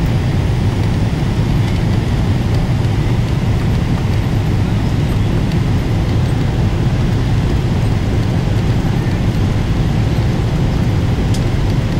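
Steady low rumble of a Boeing 777-300ER heard inside the passenger cabin: engine and airflow noise, even in level throughout.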